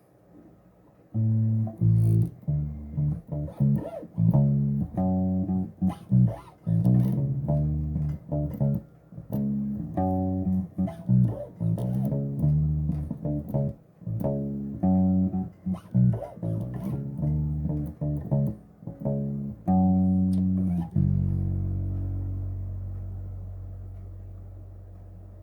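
Bass guitar played solo: a long run of plucked notes. About 21 seconds in it stops on one low note that is left to ring and fade.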